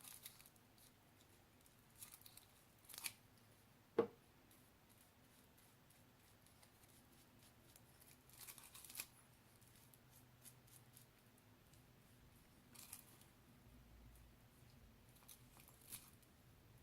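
Faint, scattered crafting handling sounds: light rustles and ticks from hands working glue and string over a plastic-film-covered bowl, with one sharp click about four seconds in.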